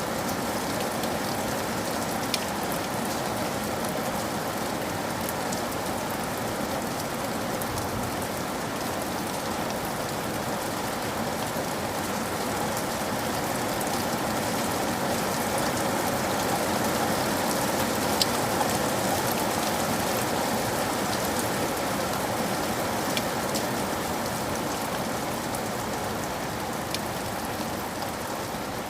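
Steady heavy rain, a dense even hiss with scattered sharper drop ticks, swelling slightly in the middle.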